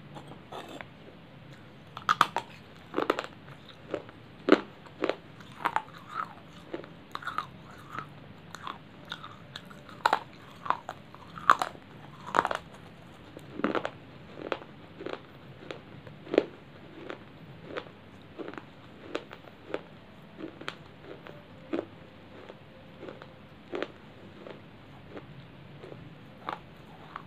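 Close-up crunching as a person chews pieces of baked clay ("clay chips"): sharp, irregular crunches about one or two a second, loudest in the first half and lighter towards the end.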